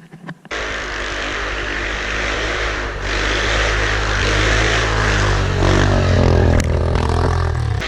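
Yamaha Grizzly 700 ATV's single-cylinder engine comes in suddenly about half a second in and runs hard under throttle, its pitch rising and falling as the rider works it.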